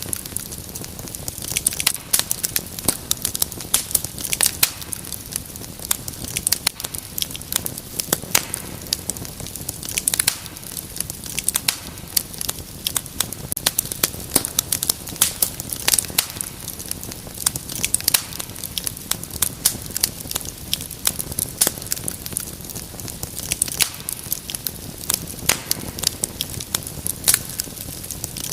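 Wood fire burning in a fireplace, crackling and popping with many irregular sharp snaps over a steady low rumble of flames.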